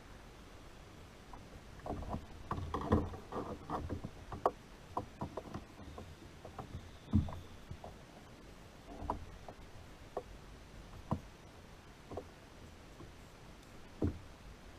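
Irregular knocks and clicks of handling inside a kayak, as hands, gear and line bump the hull: a busy cluster of taps about two to four seconds in, then single louder knocks every couple of seconds.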